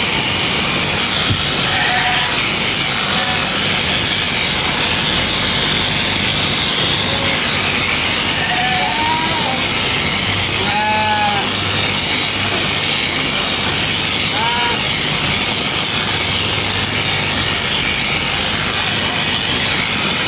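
Sheep bleating a few times in short calls, the loudest about eleven seconds in, over the steady buzz of shearing.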